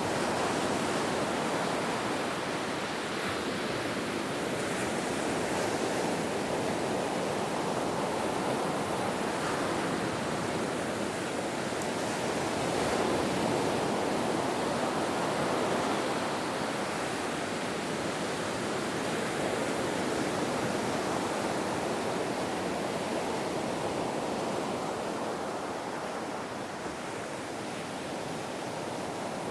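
Ocean surf washing in a continuous rush with no distinct crashes, swelling and easing slowly over many seconds.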